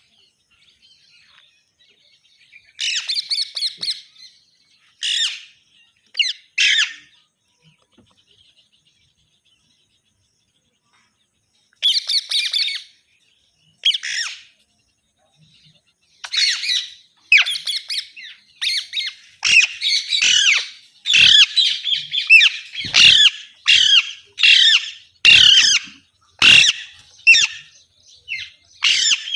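Green parakeets squawking in short, harsh calls: a few scattered squawks at first, then a near-continuous run of squawks through the second half.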